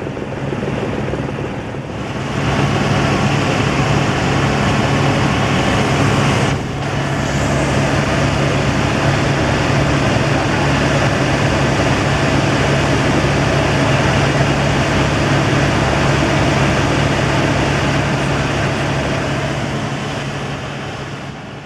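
Helicopter in flight: a loud, steady rotor and engine noise with a constant low hum under a dense rushing sound. It dips briefly about six and a half seconds in.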